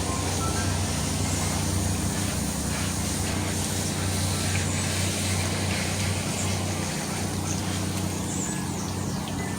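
A steady low mechanical hum, with a few faint, high bird chirps over it.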